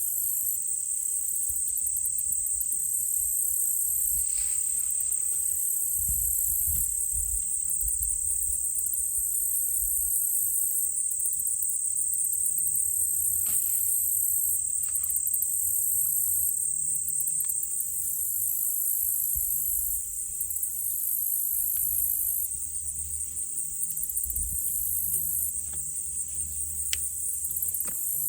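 A chorus of insects, crickets or katydids, making a steady high buzz with pulsing trills above it, over a faint low rumble.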